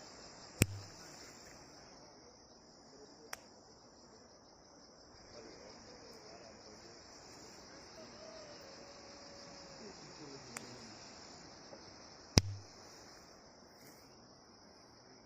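Flowers popping: a few sharp pops, two loud ones about half a second in and about twelve seconds in, with fainter ones between and at the very end, over steady insect chirring.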